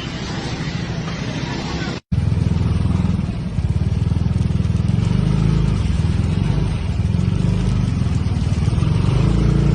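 Motorcycle engine running steadily with a low, fast pulse. About two seconds in the sound cuts out for an instant and comes back louder.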